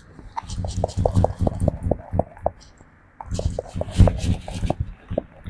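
A monkey grooming a person at close range: quick, soft clicks in two spells, with a short lull about halfway.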